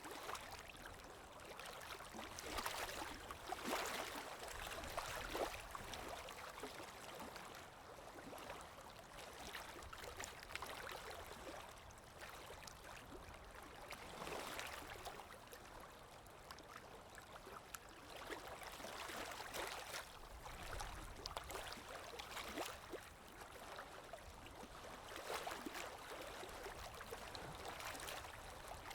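Calm sea waves washing gently onto a shore. A soft, faint hiss swells and fades every few seconds.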